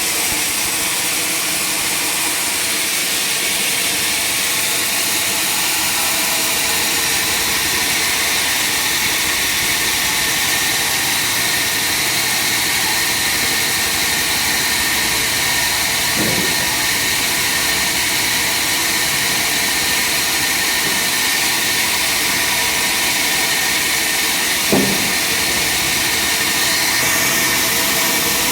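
Sawmill machinery running steadily, a constant mechanical drone with high-pitched hiss. Two brief knocks break through, one a little past halfway and a louder one about three quarters through.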